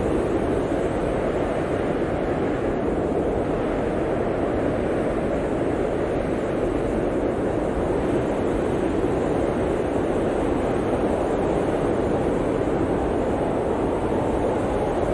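Blizzard wind blowing steadily, a dense low rushing noise that holds an even level without gusts or breaks.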